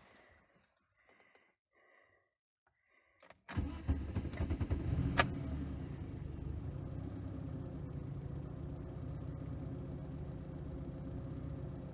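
MeMZ 3071 petrol engine on a MIKAS 11 injection ECU being started: after a few faint short sounds, it cranks and catches about three and a half seconds in, runs unevenly for a second or so with a sharp click, then settles into a steady idle.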